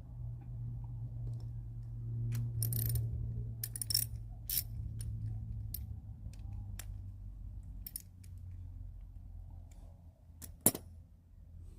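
Scattered light metallic clinks and taps of small carburetor parts being handled and fitted back together, with a sharper clink near the end, over a low steady hum.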